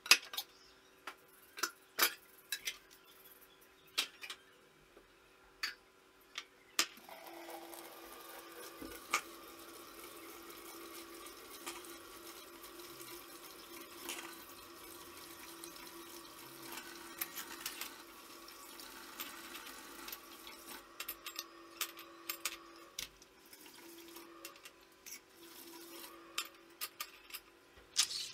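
A few sharp clicks and knocks, then a tap runs water into a sink steadily from about seven seconds in, with more light knocks near the end.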